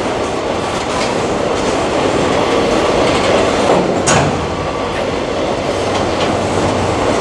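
Empty covered hopper cars of a long freight train rolling past, a steady rumble and rattle of steel wheels on the rails. Occasional clacks of wheels over the track, the sharpest about four seconds in.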